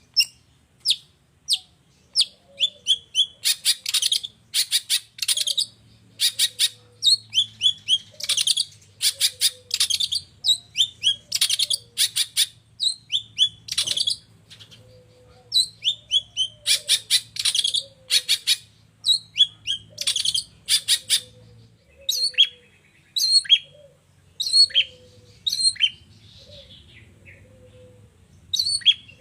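Long-tailed shrike singing a fast, varied, mimicking song: sharp chirps, short notes falling in pitch, and rapid chattering runs, one after another with brief pauses.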